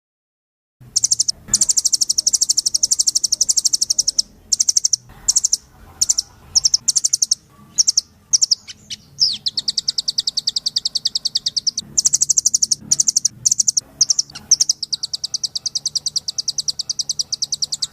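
Rambatan (nuthatch) singing in fast, rapid-fire trills of high repeated notes, phrase after phrase with brief breaks, starting about a second in. A faint low hum sits under the song.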